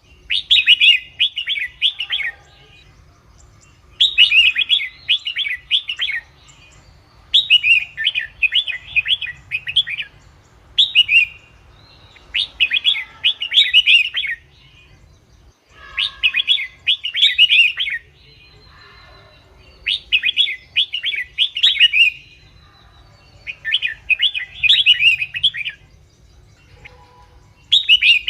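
Red-whiskered bulbul singing: short, lively phrases of quick whistled notes, each about two seconds long, repeated every few seconds.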